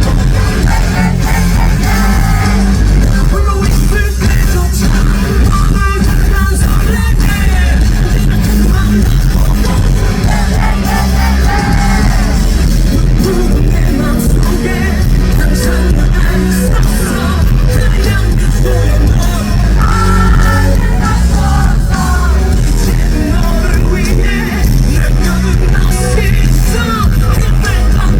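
Rock band playing live at full volume, heavy and dense, with yells and crowd cheering over the music.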